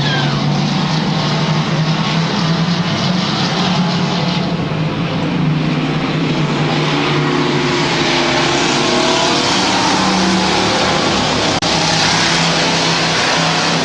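Engines of a field of dirt-track stock trucks running at speed around the oval, a steady loud blend that grows brighter from about eight seconds in as the pack comes nearer. The sound drops out for an instant near the end.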